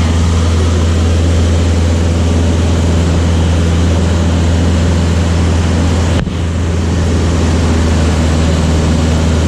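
Light training aircraft's piston engine and propeller droning steadily, heard from inside the cabin, with a low, even hum. A short click and brief dip in level come about six seconds in.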